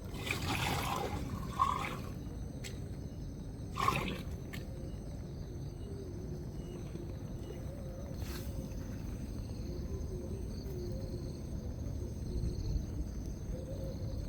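Steady rain and wind on a tent with a dribble of water. There is a rustle during the first two seconds and a short sharp knock about four seconds in.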